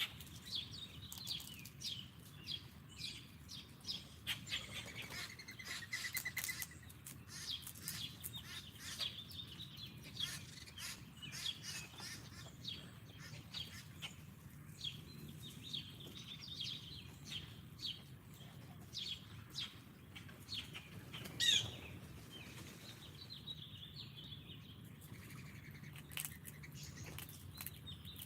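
Several small birds chirping and calling at a backyard feeder, with many short chirps and sharp ticks, a brief trill, and one louder call about two-thirds of the way through.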